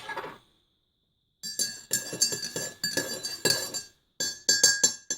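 A teaspoon clinking repeatedly against a ceramic mug, as in stirring a cup of tea. The strikes are quick and ring briefly, with a short pause before a faster run of clinks near the end.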